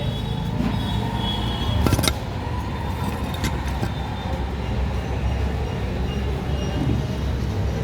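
Steady low rumble of a motor-vehicle engine, with a sharp metallic clank about two seconds in.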